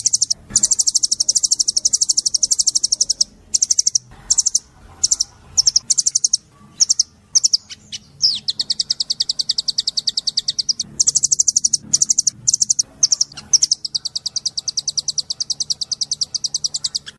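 A small songbird singing rapid, high 'tembakan' trills: long runs of fast repeated notes, broken in the middle by short gaps and single chips before the fast run resumes. This is a master song recording of the kind played to pleci (white-eyes) to teach them this song.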